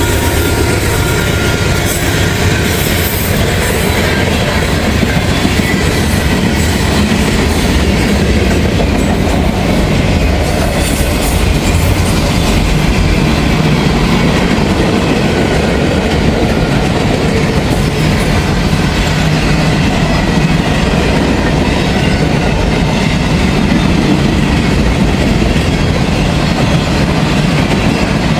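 Freight train cars rolling past at close range: a steady, loud rumble of wheels on the rails with a rhythmic clickety-clack, and a faint squeal fading out about a second in.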